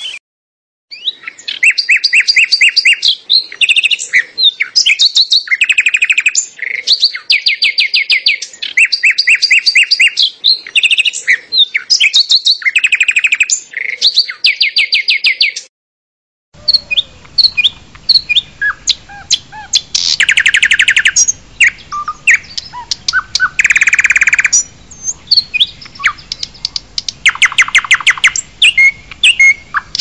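Birds chirping, with short phrases of rapid trills repeated over and over. Just before halfway a short silence breaks it, and a different recording follows: varied chirps and trills over a low background rumble.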